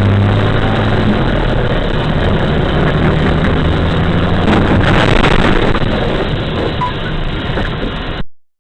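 Steady vehicle engine and road noise with a low hum, as picked up by a vehicle-mounted camera; it cuts off suddenly near the end.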